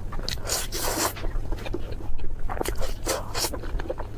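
Close-miked crunching and chewing of crispy food: irregular crackling bites, with the loudest bursts about half a second in and again around the third second.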